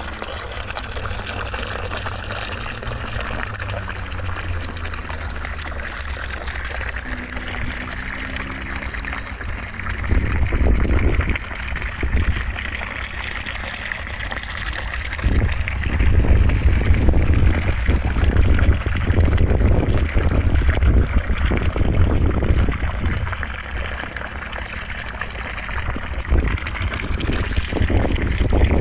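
Continuous rushing water: an even hiss over a deep rumble. The rumble swells louder about ten seconds in, and again for several seconds from about fifteen seconds in.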